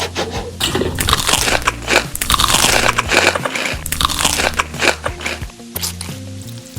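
Close-up crunchy biting and chewing of crisp food, a dense run of crunches that thins out near the end, with background music underneath.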